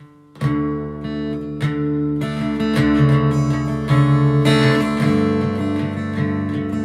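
Acoustic guitar in an unusual alternate tuning, strummed chords of a song's instrumental intro starting about half a second in and ringing on.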